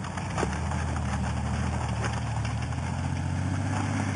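1980s Ford Thunderbird's engine running steadily at an even speed, the engine worn out and throwing oil. A brief knock about half a second in.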